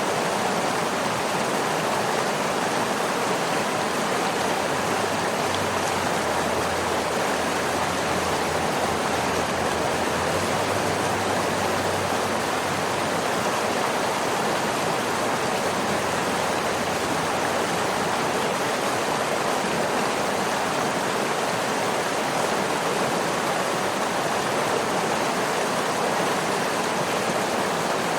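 Waterfall: falling water rushing in a steady, even wash of noise with no breaks or changes.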